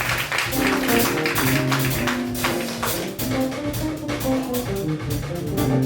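Live Latin jazz band playing a Brazilian samba-jazz tune: busy drum and hand-percussion strokes under a line of short melodic notes in the low-middle range.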